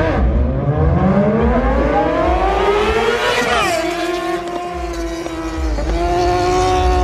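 Car engine under hard acceleration in a street race: the pitch climbs for about three seconds, drops sharply at a gearshift, holds, then dips and climbs again near the end.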